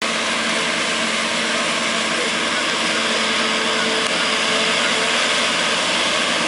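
Kubota tractor running a harvester that is filling a wagon: a loud, steady machine noise with a constant hum and a wide hiss that does not change.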